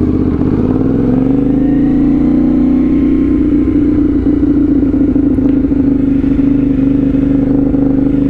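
CFMoto 450SS parallel-twin engine running loudly through a slip-on aftermarket exhaust. The engine note rises a little over the first second or two, then holds steady.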